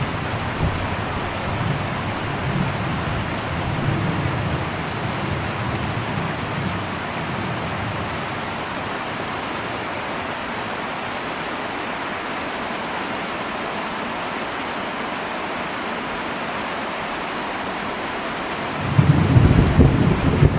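Heavy rain on an old metal roof, a steady hiss. Thunder rumbles over the first several seconds and dies away, and a new, louder thunder rumble breaks in near the end.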